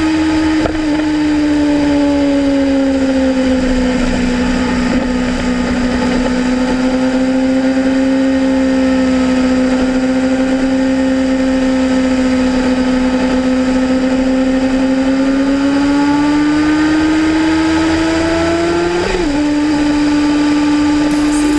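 Kawasaki Ninja ZX-6R's inline-four engine running at a steady cruise, its pitch sagging a little, then rising slowly as the bike picks up speed. About nineteen seconds in, the pitch steps down abruptly in a quick upshift.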